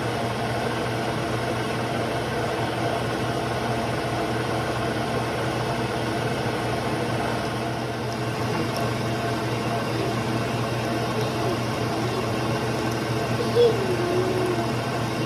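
Milling machine running with a steady hum while a metal spacer for the engine mounts is milled, with a brief louder sound near the end.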